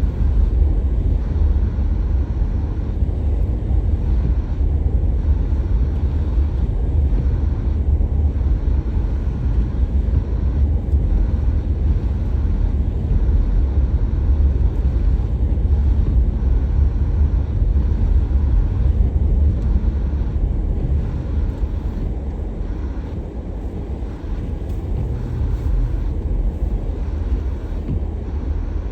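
Steady low rumble of a car on the move: engine and tyre noise with no breaks.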